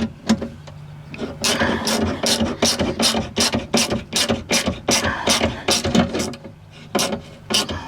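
Ratchet clicking in a steady run of about three clicks a second for some five seconds, then a few slower, spaced clicks near the end.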